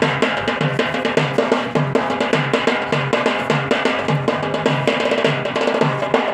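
Drums for a Yemeni Hashidi bara' dance playing a steady, loud rhythm: a low beat repeats about twice a second under quick, sharp strokes.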